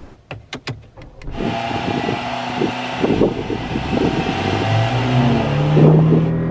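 Mercedes-Benz CLA 250's turbocharged 2.0-litre inline-four engine, heard from inside the cabin, running steadily and then revving up with a rising pitch over the last second and a half as the rpm climbs toward 5,000. A few sharp clicks come in the first second.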